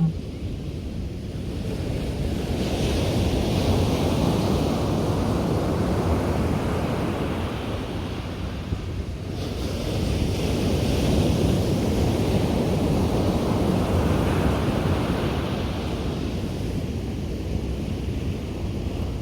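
Ocean surf breaking and washing up a beach, the rush of water swelling and easing twice, with wind rumbling on the microphone.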